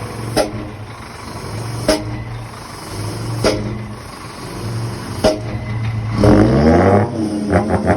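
Scania R440 truck idling, with a sharp click about every one and a half seconds. About six seconds in, its button-operated musical exhaust sounds a loud tune-like tone that slides down in pitch and back up, then breaks into quick pulses near the end.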